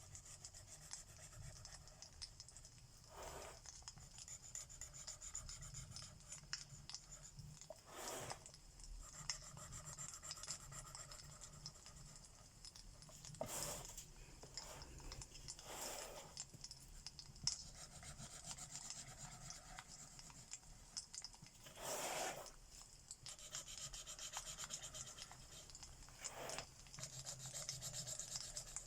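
Alcohol marker tips rubbing and scratching across paper in repeated coloring strokes, with a brighter swish every few seconds. A faint steady fireplace recording runs underneath.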